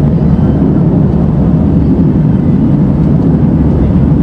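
Steady cabin noise of an airliner in flight, heard from inside the passenger cabin: a loud, even low drone of engines and airflow.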